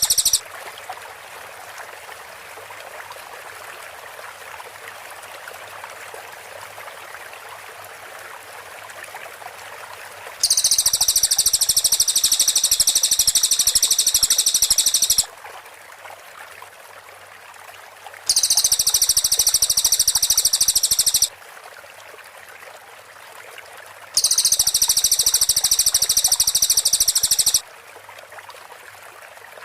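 Cililin bird calling in three long bursts of rapid, very high-pitched chattering trill, the tight 'tembakan rapat' shooting delivery, each lasting a few seconds, with the tail of another burst cutting off right at the start. A steady hiss of background noise fills the gaps between bursts.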